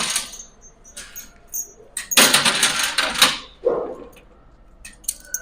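Metal gym equipment clanking and rattling: a few light clicks, then a loud rattling clatter lasting about a second, midway through.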